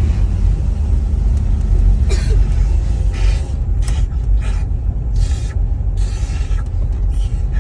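Car driving, heard from inside the cabin: a steady heavy low rumble of engine and tyres. Several short hissing bursts come through in the middle.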